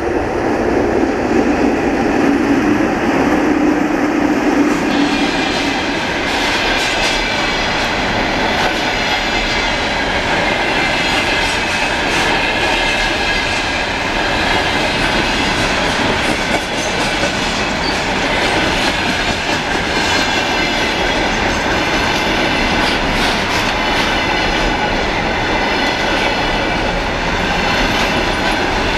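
A two-section VL11M electric locomotive passes close by with a low hum for the first few seconds. Then a long container freight train rolls past, its wheels clattering rhythmically over the rail joints with a steady rumble.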